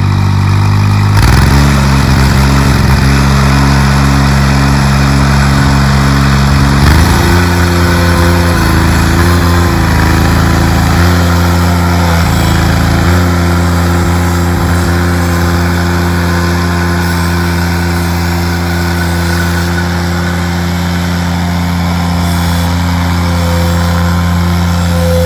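Steiner 430 tractor's Kubota three-cylinder gas engine running just after starting. Its speed steps up and down a few times in the first half, then it settles into a steady run. The engine has sat for two years, and the seller reckons it needs only a carburetor cleanup and tune-up.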